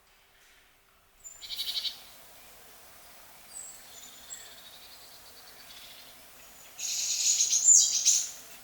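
Birds calling: a short rapid trill about a second in, faint high chirps after it, and a longer, louder rapid trill near the end, over a steady outdoor background.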